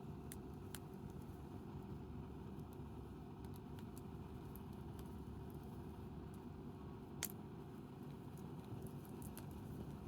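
Wood campfire crackling with scattered small pops and one sharper pop about seven seconds in, over a steady low rumble.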